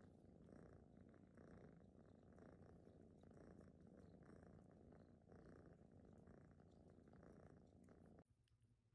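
A domestic cat purring faintly, a low steady rumble that swells about once a second with its breathing, then cuts off suddenly near the end.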